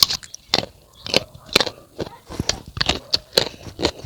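Close-up chewing of crisp unripe fruit: a steady run of sharp crunches, about four a second.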